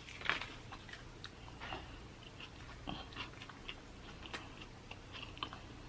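A person chewing food with the mouth open: faint, irregular wet smacks and clicks.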